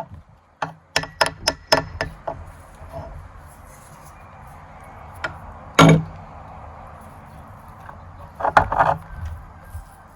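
Metal parts of a meat grinder clinking and knocking: a quick run of about five sharp clacks, one loud knock near the middle and a short cluster of clatter near the end, over a faint steady whir.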